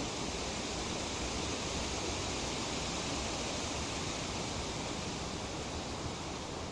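Light breeze rustling tree leaves: a steady, even hiss of foliage with no gusts or breaks.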